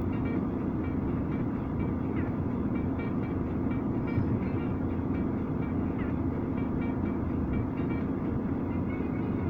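A car engine running with a steady low rumble and hum.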